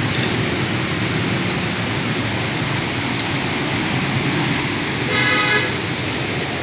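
Steady hiss of rain and street traffic, with a vehicle horn sounding one short honk about five seconds in.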